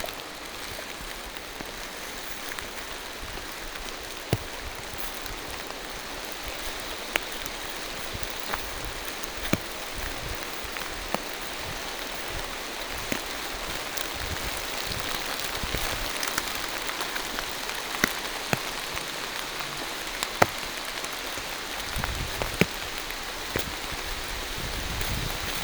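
Steady rain falling through forest trees, an even hiss with scattered single drops ticking sharply close by.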